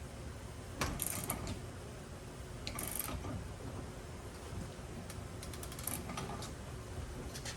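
Ball joint press being screwed down by hand, giving scattered metal clicks as a new ball joint is pressed into the Bronco II's front suspension.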